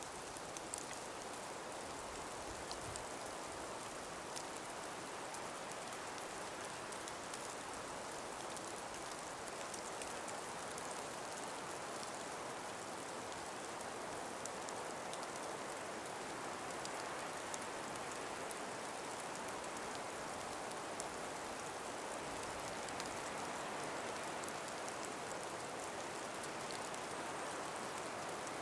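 Calm breeze in an ice- and snow-laden forest: a steady soft hiss with scattered light ticks.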